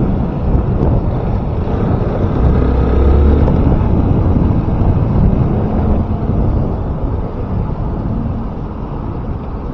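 Wind rushing over the microphone of a riding motorcycle, with the engine running underneath; the noise eases off over the last few seconds.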